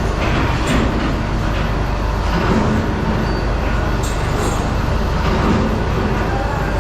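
Loud, steady machinery noise with a constant low hum, broken by a few sharp metallic clinks.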